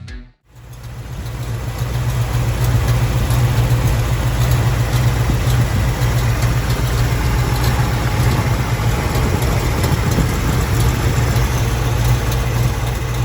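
Chevrolet 350 V8 with an Edelbrock 600 four-barrel carburetor, Hooker headers and dual exhaust idling steadily. It comes in about half a second in, builds over the first second or two, then holds an even idle.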